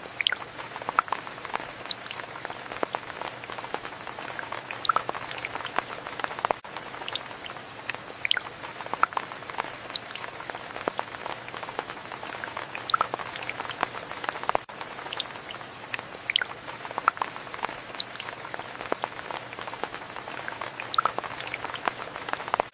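Steady rain falling, with many separate drops hitting close by over a continuous hiss. The same stretch of rain repeats about every eight seconds.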